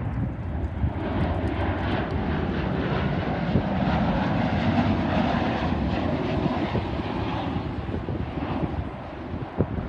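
Jet airliner passing, its engine roar swelling to a peak about halfway through and then fading, with some wind buffeting the microphone near the end.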